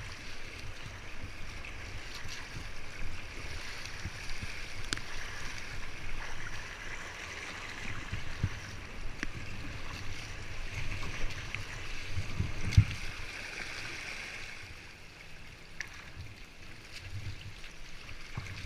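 Steady rush of river water around a kayak, with scattered light knocks and splashes.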